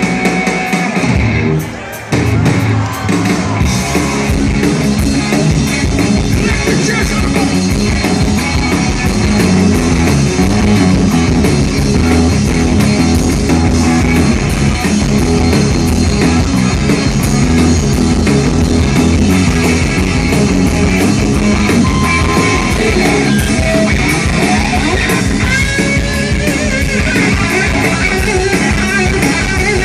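Live rock band playing an instrumental passage: electric guitar over drums, with a brief drop in loudness about two seconds in.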